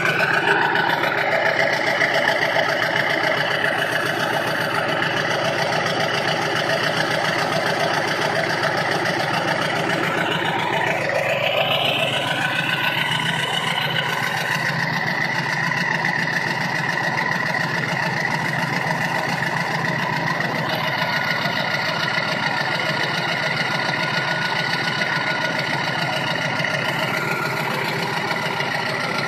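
1999 Ford 7.3 L Power Stroke V8 turbodiesel idling steadily through a 4-inch exhaust stack, warming up after a cold start. About eleven seconds in, a whine rises in pitch and then holds at the higher note.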